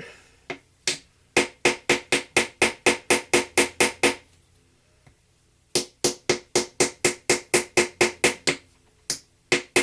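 Small hammer tapping a chisel into the plaster block of a treasure dig kit, rapid strikes about four a second with a slight metallic ring. The tapping comes in two runs with a pause of about a second and a half between them, then a few last taps near the end.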